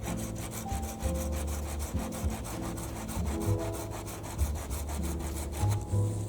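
Hand saw cutting through a wooden pole in repeated back-and-forth rasping strokes.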